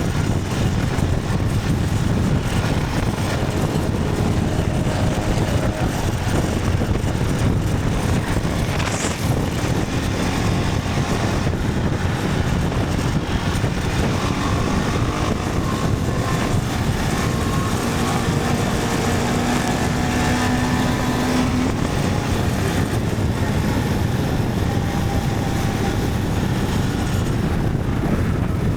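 Motorcycle under way: a steady, dense rush of engine and wind noise, heaviest in the low end, with a few faint steady tones showing through around the middle.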